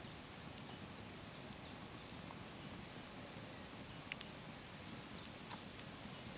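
Campfire burning with a steady hiss and scattered sharp crackles and pops, two louder pops about four seconds in.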